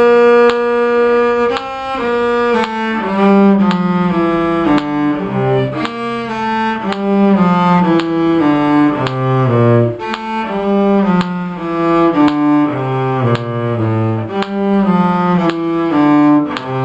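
Bowed string instruments playing a two-part round: a low line in cello range moves under a higher melody, in separate bowed notes about two a second.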